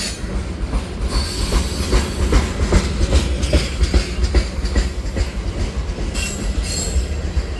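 A string of about seven diesel-electric freight locomotives rolling past close by: a heavy low engine rumble with wheels clicking over the rail joints, and short high-pitched wheel squeals about a second in and again near the end.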